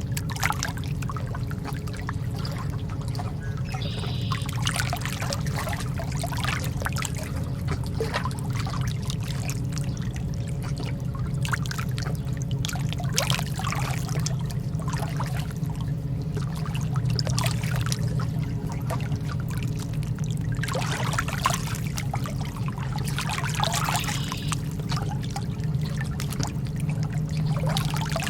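Lake water lapping and trickling at the shore, in small irregular splashes over a steady low background rumble.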